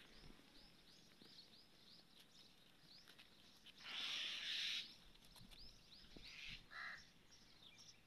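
Small birds chirping faintly and repeatedly, a quick run of short high chirps. About four seconds in comes a hiss lasting about a second, the loudest sound, and near the end a short caw-like call.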